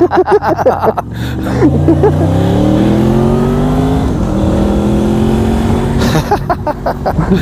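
Motorcycle engine pulling away under acceleration: its note rises for about two and a half seconds, drops at a gear change about four seconds in, then holds steady.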